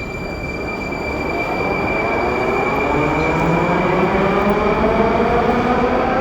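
Rusich metro train accelerating, its traction motors giving a whine that rises steadily in pitch and grows louder, over the rumble of the wheels on the track.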